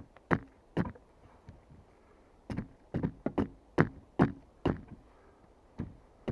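Sharp knocks of a tool striking wood, in irregular runs of quick blows with a pause of about a second and a half early on.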